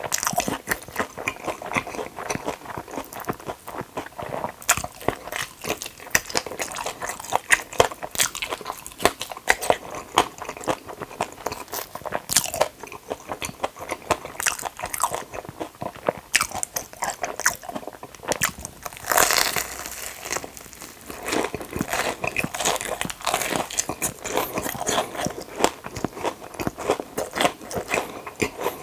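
Close-miked biting and chewing of crunchy fried Myungrang-style batter-coated hot dogs, a dense run of crisp crunches throughout. A louder stretch of crunching comes about two thirds of the way in.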